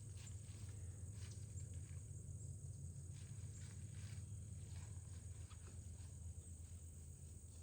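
Quiet outdoor ambience: a steady low hum and a thin, steady high-pitched whine, with a few faint scattered clicks or rustles.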